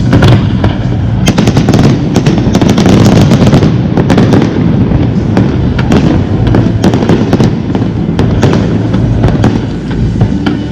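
Fireworks display: a continuous barrage of many overlapping bangs and crackles, loud throughout.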